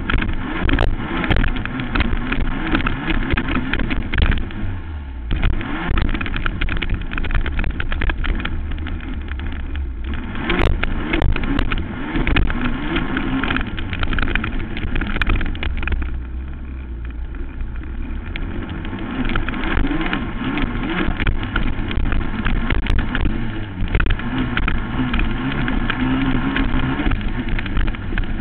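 Racing quad (ATV) engine running hard, its revs rising and falling again and again.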